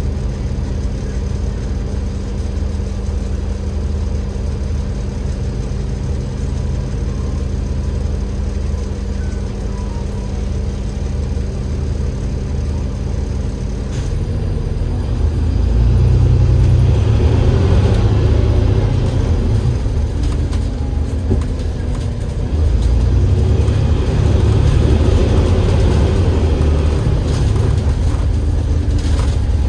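Double-decker bus's Cummins L9E diesel engine heard from on board: a steady low hum with a constant tone at first, then about halfway through the engine note rises and grows louder as the bus pulls away, dips briefly about two-thirds of the way in as the automatic gearbox changes gear, and picks up again.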